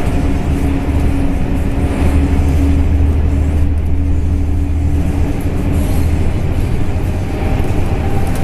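Double-decker bus under way: a steady low engine drone with road and body noise, and a humming tone that fades out about two-thirds of the way through.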